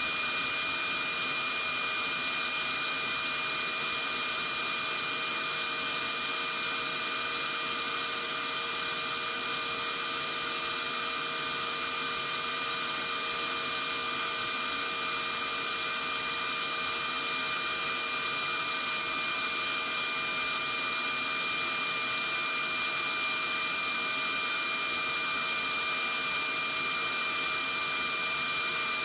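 Vacuum cleaner running steadily: an even rush of air with a high motor whine that holds one pitch throughout.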